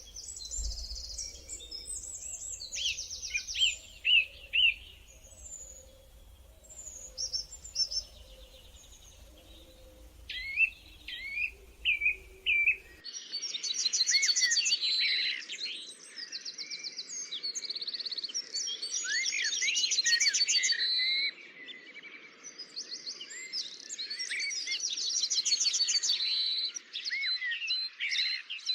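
Songbirds singing, with chirps, trills and rapid strings of repeated notes. The song is scattered at first, then several birds sing over one another, denser and louder, from about halfway through.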